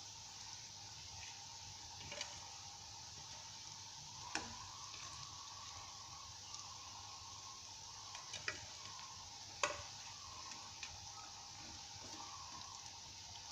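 Breaded quail eggs frying in hot oil: a steady sizzle, broken by a few short sharp clicks, the loudest about four and nine and a half seconds in.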